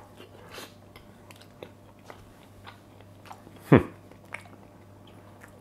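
A man chewing a mouthful of roast chicken breast with mayonnaise, with faint scattered mouth clicks, and one sharp louder knock a little before four seconds in.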